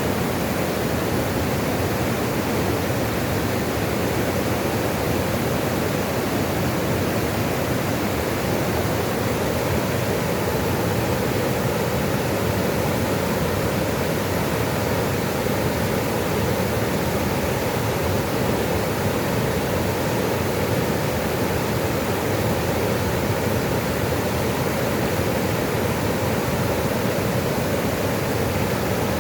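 Running water rushing steadily, an even unbroken noise with no separate splashes.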